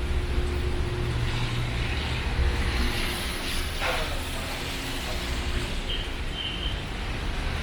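Steady low hum of a running vehicle engine over the general noise of a busy market, with a brief falling squeak about four seconds in.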